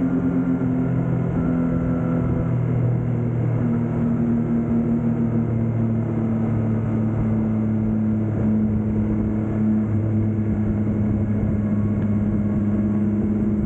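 Yamaha MT-09's three-cylinder engine with a Yoshimura R11 exhaust running at a steady, low engine speed, its pitch shifting slightly a few times.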